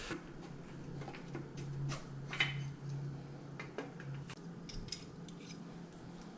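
Scattered light metallic clinks and taps of tools and engine parts being handled on the bench, over a steady low hum that fades out about two-thirds of the way through.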